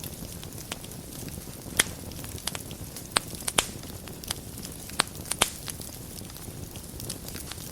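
Wood fire burning in a fireplace: a steady low hiss and rumble of flames with irregular sharp crackles and pops, the loudest about two seconds in and in a cluster between three and five and a half seconds in.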